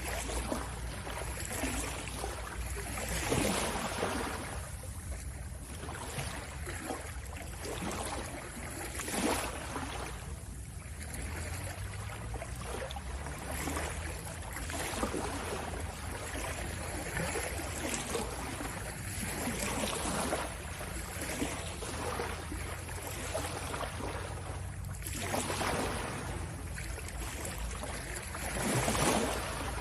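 Ocean waves washing in: a continuous sea hiss with a low rumble beneath, swelling and ebbing irregularly every few seconds.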